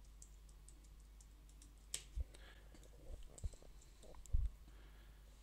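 Scattered keystrokes and clicks on a computer keyboard, sparse and uneven, with a few soft low thumps, the loudest about four seconds in.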